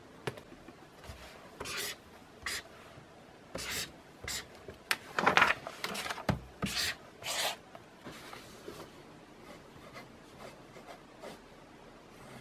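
Pen writing on paper in short separate strokes, with a louder, longer rub about halfway through.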